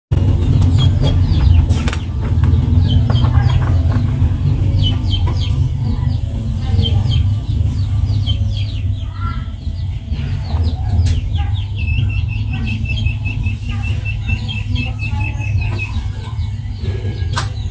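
Birds chirping in short, high, downward-slurred peeps, with a quick run of evenly repeated high notes in the later part, over a steady low rumble. A couple of sharp clicks sound, one about two seconds in and one near the end.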